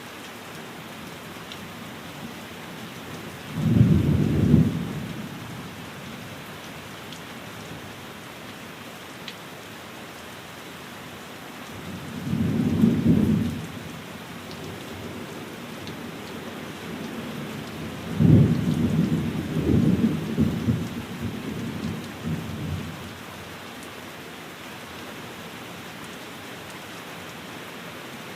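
Steady rain falling, with three low rumbles of thunder: one about four seconds in, another about twelve seconds in, and a longer, rolling one from about eighteen seconds in that swells several times before fading.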